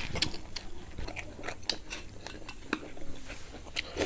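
Close-miked eating sounds of roasted pig head: chewing, with irregular small clicks and smacks from mouth and fingers. A louder slurp from a spoon comes near the end.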